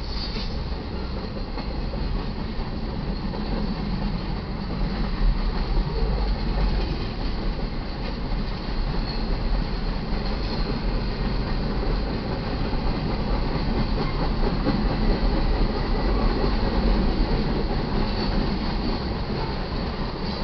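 Union Pacific freight train's cars rolling steadily past on the main line, the wheels running over the rail in a continuous noise that swells and eases a little.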